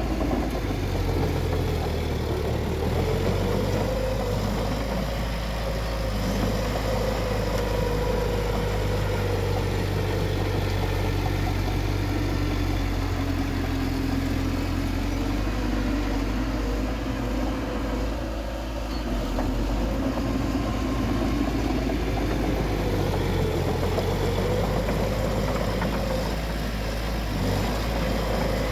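Bulldozer's diesel engine running steadily as the machine works, its engine note wavering up and down and dipping briefly about two-thirds of the way through.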